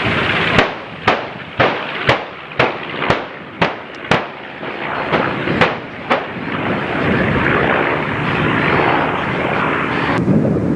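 A string of airshow pyrotechnic blasts for a simulated bombing run, about a dozen sharp bangs going off roughly twice a second with a brief break near the middle, over a steady rush of wind and aircraft noise.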